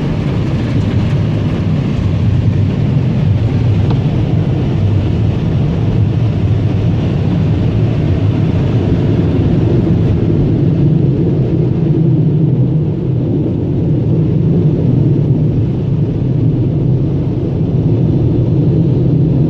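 Automatic car wash air dryers blowing on the vehicle, heard from inside the car as a steady, loud rushing drone with a strong low hum.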